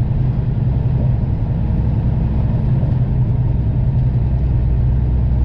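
Semi truck's diesel engine running steadily while driving, heard from inside the cab as a low, even drone with road noise.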